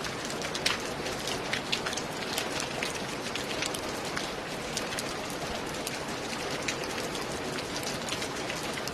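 Steady rain falling on a roof, a constant hiss with many separate drops striking as sharp ticks, the loudest about a second in.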